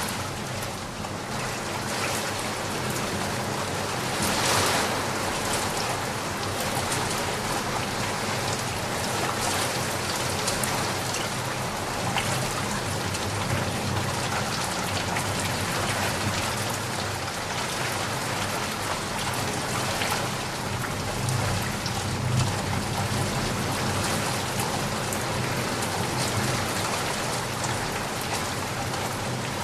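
Steady rain falling and pattering on surfaces, a dense even hiss full of individual drop ticks, swelling slightly about four seconds in.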